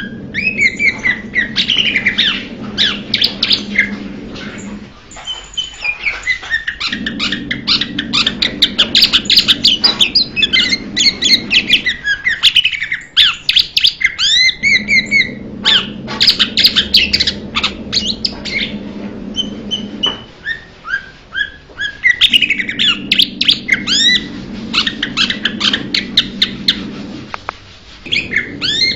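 Blue-winged leafbird singing: long, rapid phrases of varied chirps and sweeping whistled notes, broken by short pauses. A low hum sits under the song and comes and goes in stretches of about five seconds.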